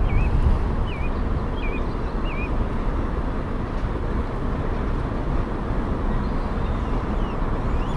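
Steady low outdoor rumble, with a bird repeating a short chirp four times, about every three quarters of a second, in the first few seconds, and faint chirps again near the end.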